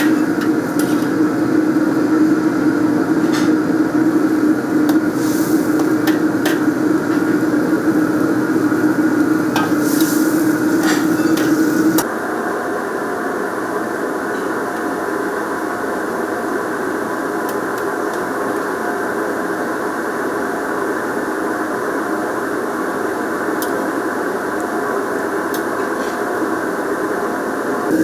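Kitchen cooking noise: a steady low drone with scattered knocks and clinks of utensils. About twelve seconds in it cuts to a slightly quieter, more even hum with fewer clinks.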